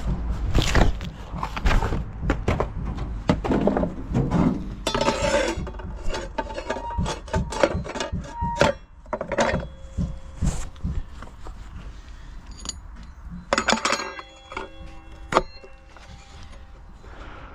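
A run of clinks and knocks from hard objects being handled, with a few short ringing metallic tones near the end.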